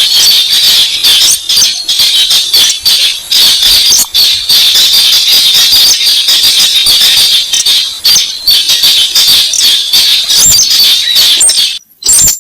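Lure recording of weris bird calls: a loud, rapid, dense run of sharp clicking, rattling notes that stops abruptly near the end, followed by a few short bursts.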